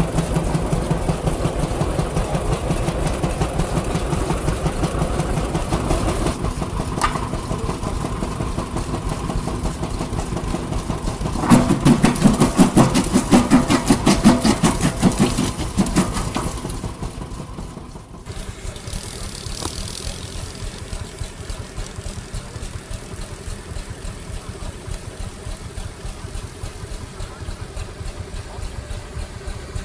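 Vintage engines running with a rhythmic firing beat. A louder engine pulses for a few seconds around the middle, then the sound changes suddenly to a quieter, steadier engine running.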